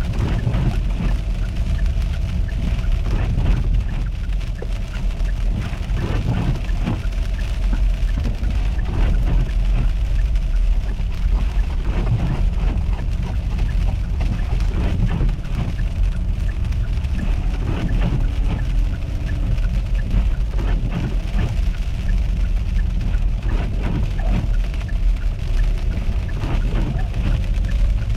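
Car driving on a wet, icy road in a winter storm: a steady low rumble of tyres and engine, with irregular crackling and spatter from slush and sleet.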